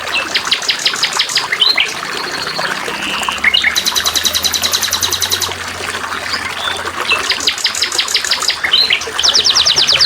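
Trickling water with songbirds singing over it: three bursts of fast, evenly repeated trill notes, with short upslurred chirps between them.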